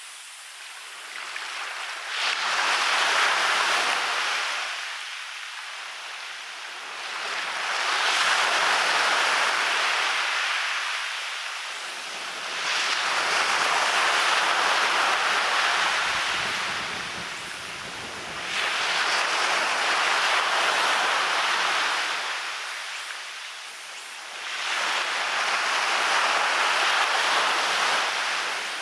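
Waves breaking and washing up onto a beach: five swells of surf about every five to six seconds, each rising, holding for a few seconds, then falling away.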